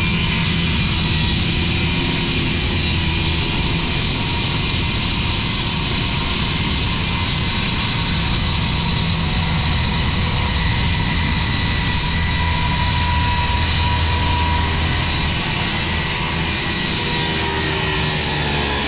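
Milwaukee 7-1/4 inch corded circular saw with a 24-tooth carbide blade running steadily as it cuts lengthwise through 3/4 inch tongue-and-groove red oak flooring, making a relief cut to free boards that moisture has swollen and pushed up.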